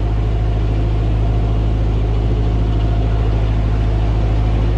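Narrowboat's diesel engine running steadily at cruising speed, a constant low throb.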